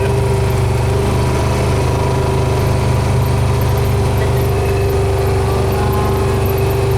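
A vehicle engine runs at a steady speed, holding one even pitch throughout.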